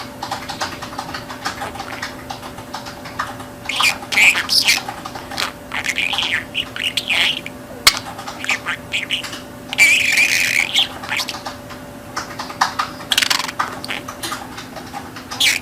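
Budgerigar chattering and warbling in irregular bursts of short chirps and squawks, loudest about ten seconds in, over a faint steady hum.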